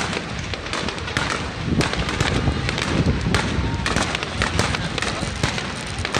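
Fireworks display: aerial shells bursting in quick succession, with dense crackling and popping over continual low booms.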